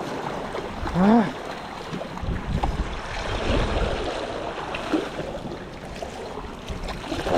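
Sea surf washing over a rocky shoreline, a steady rushing noise, with wind on the microphone.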